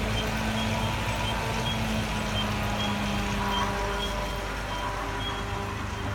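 Rear brake on a Toyota Hilux Surf giving a short, high chirp that repeats about twice a second, over the steady running noise of the vehicle: the abnormal rear-brake noise being checked.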